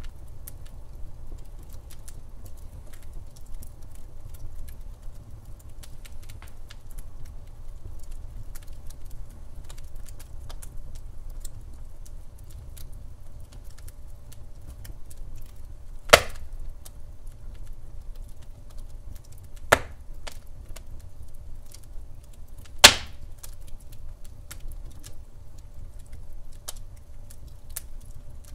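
Wood fire crackling in a fireplace: steady low burning noise with many small crackles and three loud sharp pops, about 16, 20 and 23 seconds in.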